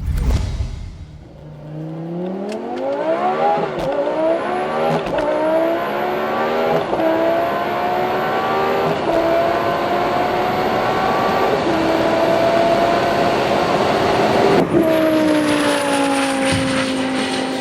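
Twin-turbocharged 5.2-litre Audi R8 V10 accelerating hard. The engine pitch climbs and dips briefly at each of several upshifts, with a thin high whine over it. About fifteen seconds in the driver lifts off and the pitch falls away.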